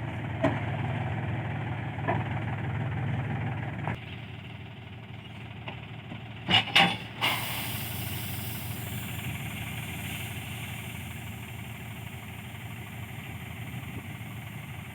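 John Deere 5050E tractor's three-cylinder diesel engine running steadily under a threshing job. There are a few sharp knocks, and a pair of loud bangs comes about six and a half seconds in. The engine sound drops in level about four seconds in.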